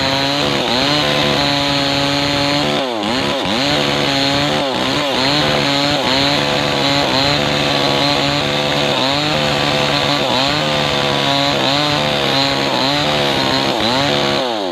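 Maestro 6500L two-stroke chainsaw running at full throttle while cutting along a kapok log, its engine pitch dipping under the load and recovering about once a second. Near the end the engine speed drops sharply as the throttle is let off.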